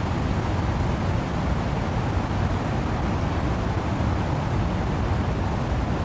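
Steady wind-and-rain noise: a deep, even rush with no separate drops, gusts or other events.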